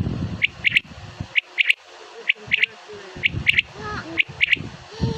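Common quail (desi batair) calling: a sharp three-note phrase, one note then two quick ones, repeated about once a second.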